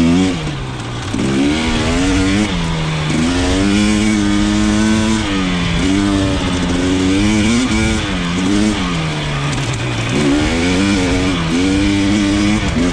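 KTM 300 XC two-stroke dirt bike engine being ridden, its revs rising and falling every second or two as the throttle is worked.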